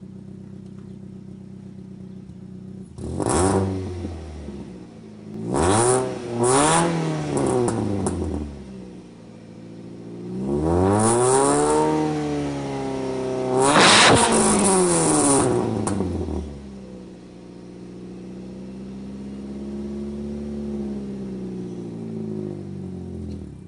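Saturn Ion four-cylinder engine with a Pacesetter header, 3-inch test pipe in place of the catalytic converter, and Magnaflow muffler, idling and then revved about five times. The longest and highest revs come just past the middle. It then settles back to a steady idle that wavers slightly near the end.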